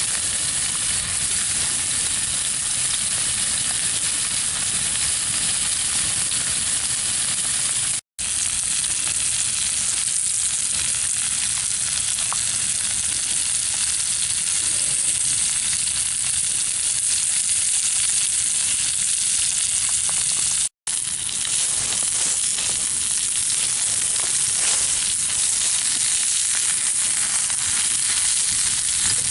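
Chicken thighs sizzling steadily as they brown on a cast iron griddle over a wood fire. The sound drops out for an instant twice, about 8 and 21 seconds in.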